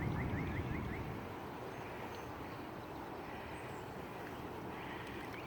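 Steady rushing noise of flooded creek water flowing, with a quick series of short, high, rising chirps from a bird near the start and again near the end.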